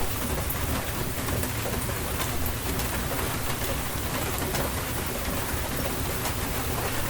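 Steady rain falling on a surface, with individual drops ticking sharply through the even hiss and a steady low rumble underneath.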